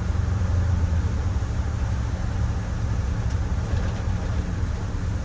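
Steady low rumble of a Micro Bird Girardin G5 bus, heard from inside the passenger cabin.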